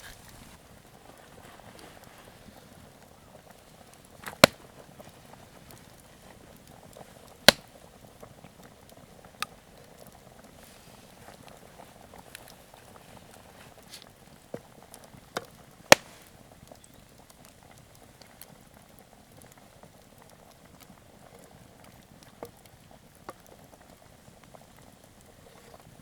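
Pot simmering over a wood campfire, a faint steady bubbling hiss broken by a handful of sharp pops from the burning wood. The loudest pops come about four, seven and a half and sixteen seconds in.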